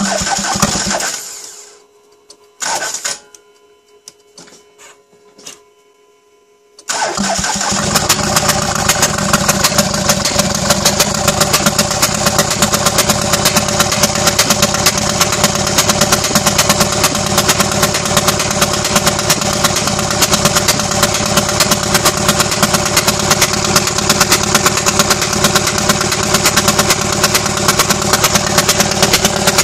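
Jeep engine starting up: after a couple of brief noisy bursts near the start, it catches about seven seconds in and runs steadily with a rapid, even ticking.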